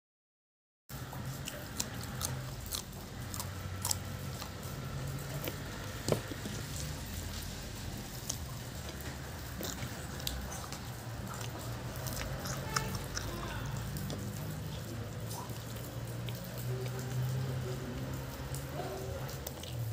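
Close-up eating sounds: chewing, with many small sharp mouth clicks and crunches scattered throughout, over a steady low hum. It starts after about a second of dead silence.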